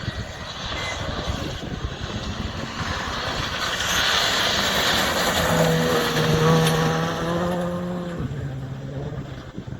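Rally car passing at speed, its engine growing louder as it approaches, loudest about six seconds in, then fading away with the engine note dropping in pitch near the end.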